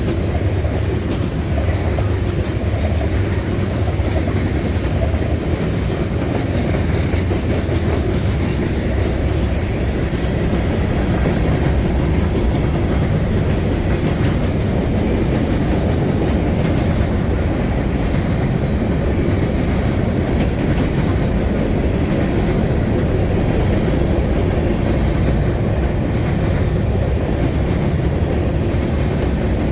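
Train cars rolling past close by: a steady rumble of steel wheels on the rails, with sharp clicks scattered through the first ten seconds or so.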